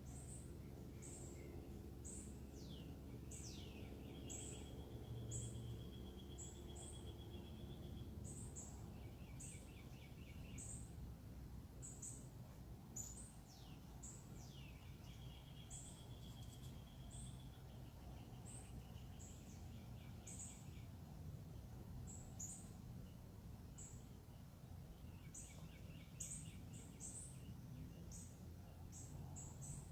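Faint backyard birdsong: repeated short high chips throughout, and twice a long falling whistle that runs into a steady trill lasting several seconds, over a low steady hum.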